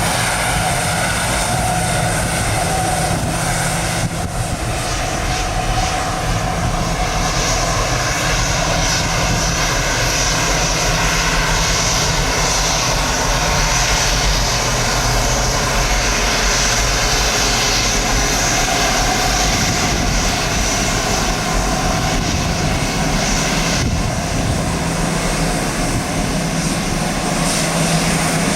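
Gulfstream G550 business jet's Rolls-Royce BR710 turbofan engines running steadily, with a high whine that grows stronger for a stretch in the middle and then eases off, over a low rumble of wind buffeting the microphone.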